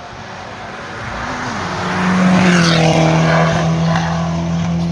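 Hill-climb competition car under hard acceleration approaching and passing, growing louder to a peak about two seconds in, its engine then holding a steady high note as it carries on up the climb.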